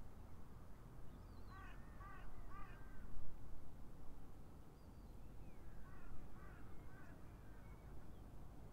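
Wild birds calling: three quick pitched calls about a second and a half in, then a fainter run of calls around six seconds in, over a low steady background rumble.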